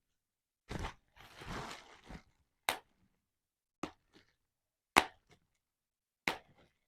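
Bubble wrap being handled and popped: a crinkle of the plastic in the first two seconds, then four single sharp pops spaced a second or so apart, the one about five seconds in the loudest.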